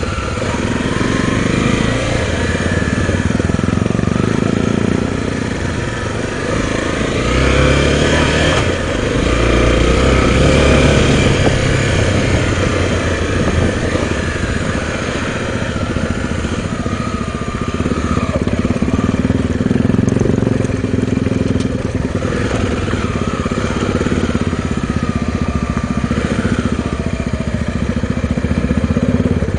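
Honda Tornado dual-sport motorcycle engine running while ridden off-road, the revs rising and falling as the rider works the throttle.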